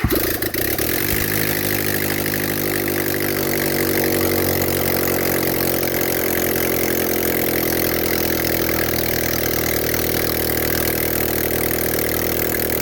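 Freshly rebuilt Fiat Punto 1.2 four-cylinder petrol engine, just started after reconditioning with new pistons, rings and valve seals, running steadily at idle. The revs settle in the first second or two, then hold even.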